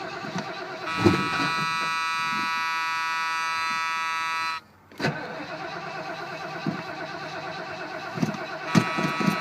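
Ford Torino's starter motor cranking the cold engine over with a rhythmic pulsing churn, the engine not catching. About a second in a steady high whine takes over for several seconds, then cuts out; a click follows and the cranking resumes, the whine returning near the end.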